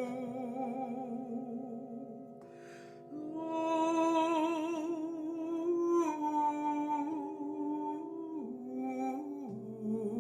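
Wordless vocal humming and singing with vibrato, long held notes that step to new pitches, over a steady drone. It grows louder after a short lull about a third of the way in.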